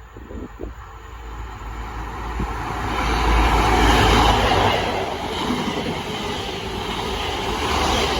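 Passenger train passing close by at speed: a rushing rumble of wheels on rail that builds to its loudest about four seconds in, holds steady, then drops away sharply near the end.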